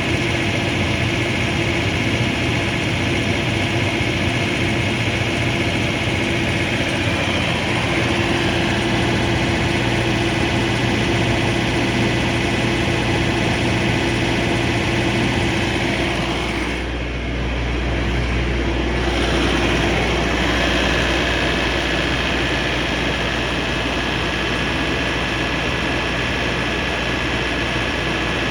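John Deere diesel engine of a Generac 48 kW standby generator running steadily at speed. About two-thirds of the way through, the hiss briefly dips and a deeper low hum comes up, then the running settles steady again.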